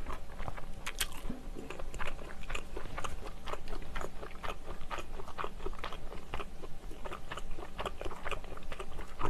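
Close-miked chewing of a mouthful of bread, a continuous run of small wet mouth clicks with a sharper click about a second in.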